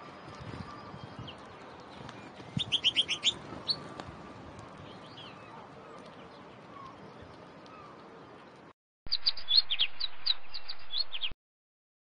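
Small songbirds chirping over a faint steady hiss: a quick run of short, high chirps about two and a half seconds in, with a few scattered calls after. After an abrupt cut, a louder burst of rapid chirps follows and stops suddenly about a second before the end.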